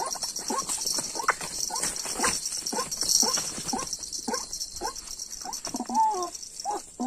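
White-breasted waterhen calling: a rapid series of short repeated calls, about two to three a second, thinning out near the end, over a steady high hiss.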